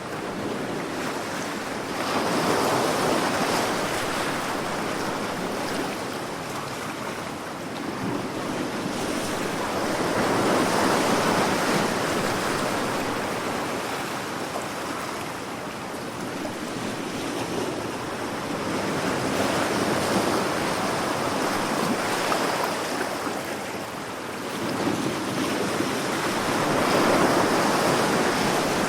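Ocean waves breaking and washing on a shore, a continuous rush of surf that swells and fades every several seconds.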